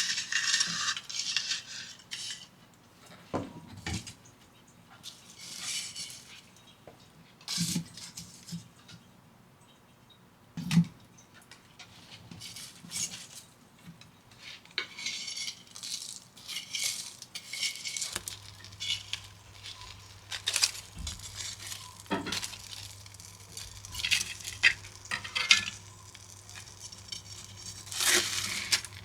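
Kitchenware being handled: intermittent clinks, knocks and rustling of dishes, pots and utensils. A low steady hum joins about two-thirds of the way in.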